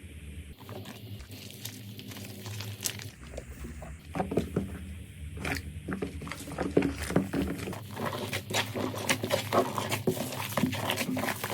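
Slime being squeezed and worked by hand, making wet sticky clicks and pops that come faster about four seconds in and become a dense crackle in the last few seconds.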